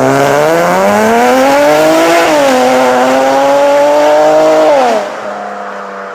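Infiniti G35's 3.5-litre V6 with an aftermarket exhaust accelerating hard: revs climb, drop at an upshift about two seconds in, and climb again. Near the end the throttle is lifted and the sound falls back and fades as the car pulls away.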